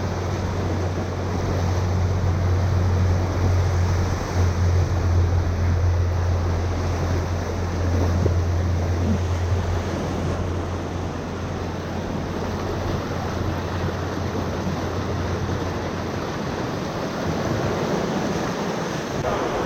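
Rushing whitewater of the Ocoee River, a steady loud noise with a low rumble through the first half.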